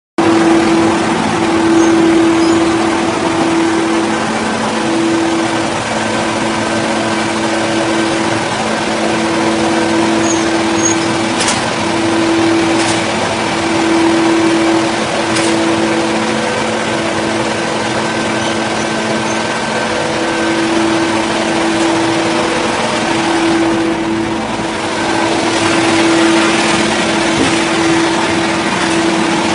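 Engine-driven wood saw running steadily at high speed with one constant pitch, with a few sharp ticks in the middle.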